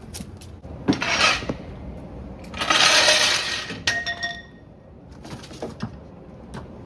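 Hard objects clattering: a short crash about a second in, then a longer, louder crash near the middle that leaves a ringing dying away.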